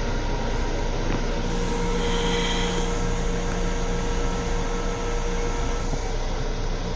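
Steady running noise of a Long Island Rail Road M7 electric railcar heard from inside its small restroom, a mix of rumble and ventilation hiss. A steady hum and whine rises over it from about a second and a half in and fades about six seconds in.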